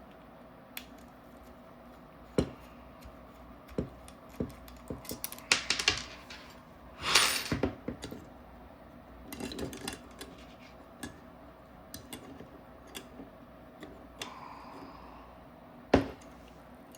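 Small clicks, taps and knocks of paintball marker parts and small tools being handled on a workbench. There is a louder rustling stretch a few seconds in, and a sharp knock near the end.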